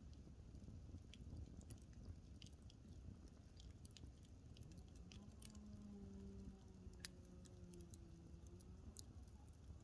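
Wood fire burning in a fireplace, faint, with scattered small crackles and pops over a low rumble. A faint low steady tone joins about halfway through, drifts slightly down in pitch, and fades out after about four seconds.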